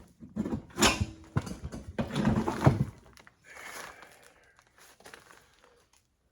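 Hard knocks and clatter of metal parts or tools being handled, loudest in the first three seconds, then a softer scraping that fades out.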